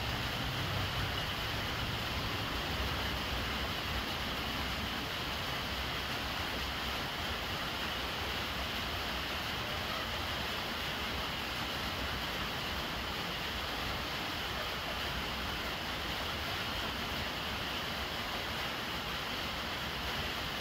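Steady rain falling on the brimming water of a large water jar and on the surroundings, an even hiss with no break.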